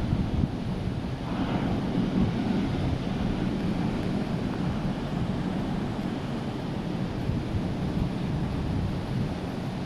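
Heavy surf from a hurricane-roughened sea, waves breaking continuously, with one wave breaking louder about a second and a half in. Wind buffets the microphone underneath.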